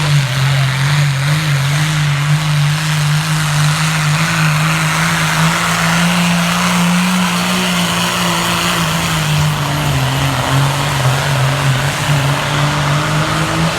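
Pulling truck's engine running hard at steady high revs during a pull, over tyre and track noise; its pitch sags a little in the last few seconds, then rises sharply at the very end.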